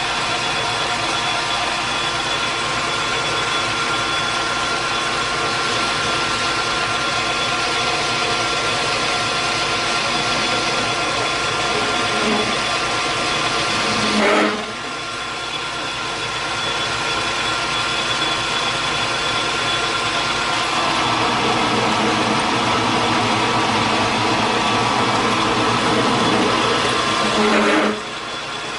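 Metal lathe running and taking a turning cut, with the steady hum of the machine under the hiss of the tool cutting, right on the verge of chattering. The sound drops suddenly about halfway through and again near the end, then picks back up.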